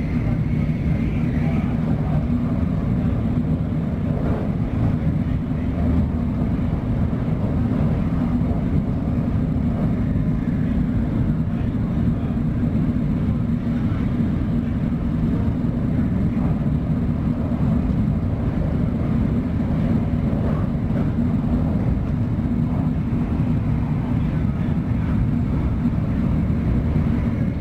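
Shinkansen bullet train running at high speed, heard from inside the passenger cabin as a steady, low rumble.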